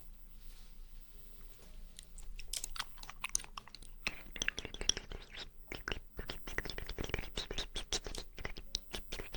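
Close-miked wet mouth sounds of someone chewing jelly: a quiet start, then rapid sticky clicks and smacks from about two seconds in, becoming dense from about four seconds in.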